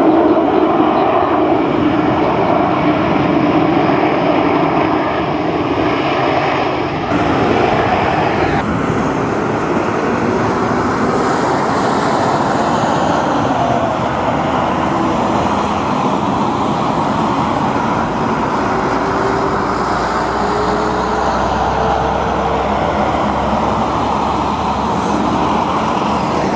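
Airbus A310 airliner's twin jet engines running steadily as it comes in to land, a continuous rush of jet noise with a faint tone rising slowly about two thirds of the way through.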